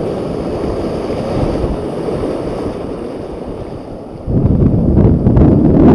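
Wind buffeting the microphone as a steady rumbling noise that jumps much louder about four seconds in, with a few sharp clicks near the end.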